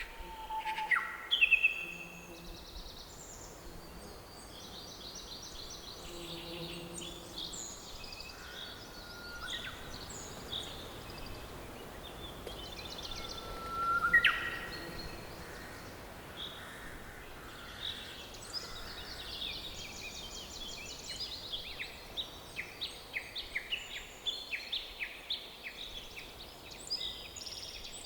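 A chorus of forest songbirds chirping and trilling over a faint steady hiss, with a louder upward-sweeping whistled call about halfway through.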